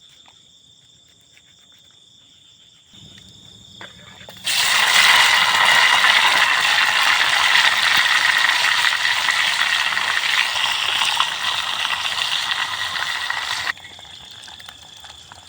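Crickets chirping with a steady high tone, then, about four seconds in, a loud sizzling hiss of food going into hot frying oil. The hiss holds for about nine seconds and cuts off abruptly near the end.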